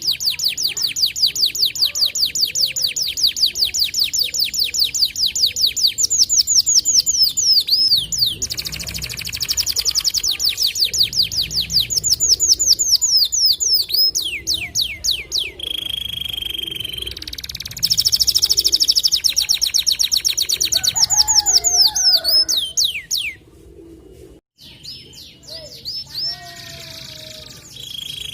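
White domestic canary singing long, fast trills of rapidly repeated high notes, broken by a short held whistle about halfway through. The song stops about three-quarters of the way in, leaving softer chirps.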